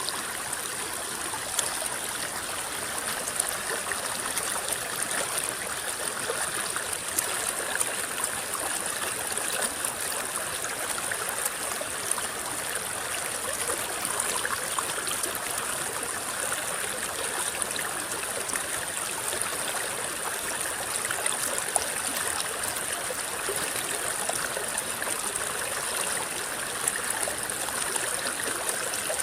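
River water rippling and trickling over stones, a steady rushing hiss full of small splashes and gurgles.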